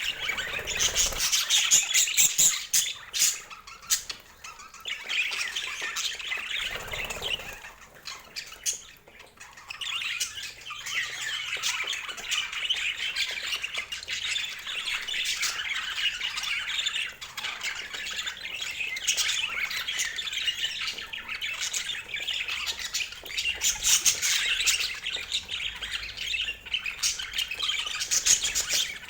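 Pet budgerigars chattering, warbling and squawking, a dense stream of overlapping short chirps with a brief lull about eight seconds in.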